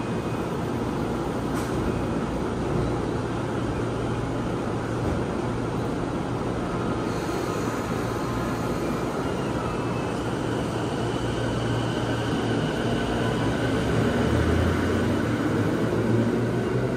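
JR Nambu Line electric commuter train at the platform, its doors closing, then pulling away. Its motor whine rises in pitch over the last few seconds, over a steady low hum.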